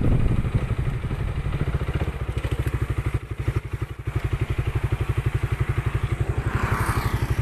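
A small engine running steadily with a rapid, even chugging pulse, like a motorcycle engine.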